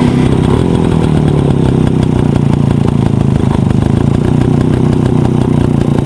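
Big V-twin motorcycle engine running steadily and loudly, its note holding even with no revving.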